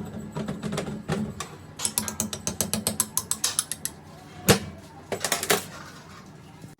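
Quick runs of small metal clicks, about ten a second, from hand work on a mechanism. There is one sharper, louder knock about two-thirds of the way in, then a short burst of clicks.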